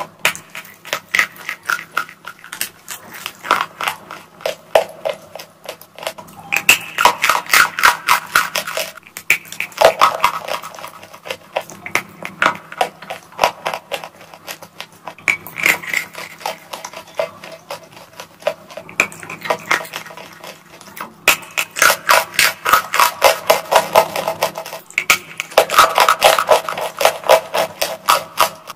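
Close-miked crunching and chewing of bitten-off chalk bar: rapid dry crunches, coming in several louder spells.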